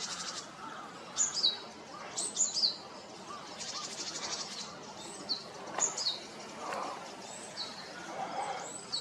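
Wild birds calling: repeated short, high notes that slide downward, with a fast buzzy trill at the start and again about four seconds in.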